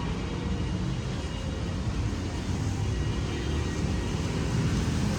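Steady low rumble of outdoor background noise, with no clear voices.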